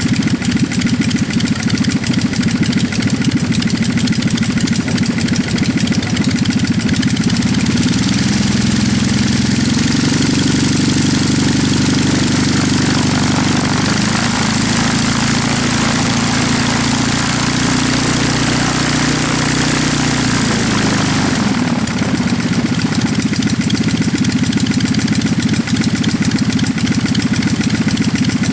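Mosler 40 hp half-VW two-cylinder engine of a Preceptor N3 Pup ultralight running with its propeller: it idles steadily, is run up to a higher speed about eight seconds in, holds there, and drops back to idle a little past the two-thirds mark.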